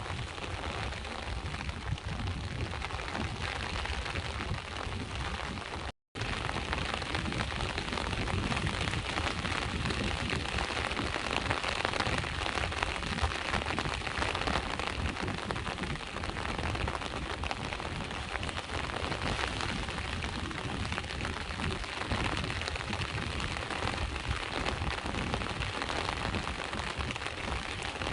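Steady rain with sea waves: a dense, even hiss of rain, cut by a brief total break in the sound about six seconds in, after which it continues a little fuller.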